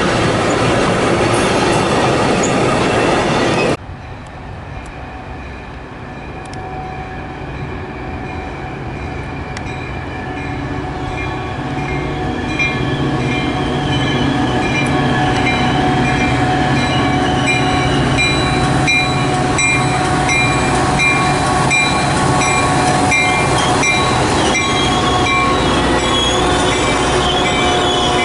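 Train running by on the main line, steel wheels squealing and clacking over the rail joints. The sound cuts off sharply about four seconds in and starts again quieter, then builds over the next several seconds as another stretch of train comes by, with steady high wheel squeal and a regular clacking.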